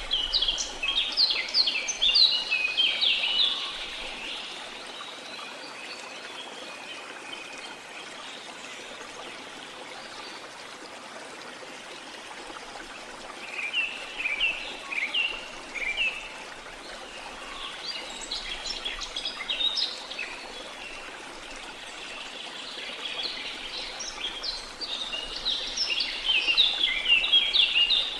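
Steady rush of flowing water from a waterfall or stream, with songbirds chirping over it in bouts of rapid high chirps: one at the start, two shorter ones around the middle, and a longer one near the end.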